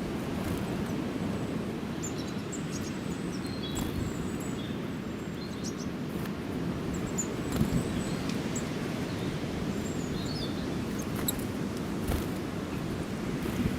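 Small birds chirping in short, scattered calls over a steady low outdoor background noise, with a few sharp taps about halfway through and near the end.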